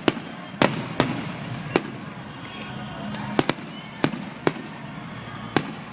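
Aerial fireworks bursting: about nine sharp bangs at uneven spacing, some in quick pairs, over a steady background hum.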